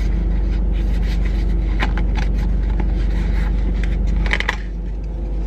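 Car engine idling with a steady low hum, which eases slightly about four seconds in. Over it come a few scrapes and taps as a molded paper takeout lid is handled and taken off a bowl.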